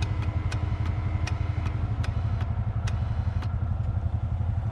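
ATV engine idling with a steady, fast low pulse, a faint whine fading out about two seconds in, and sharp ticks every half second or so.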